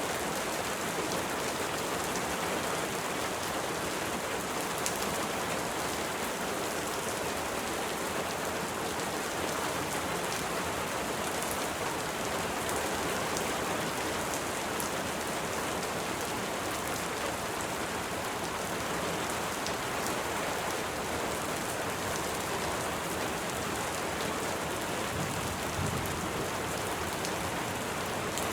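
Steady rain falling, an even hiss with many sharp drop ticks, and a faint low rumble near the end.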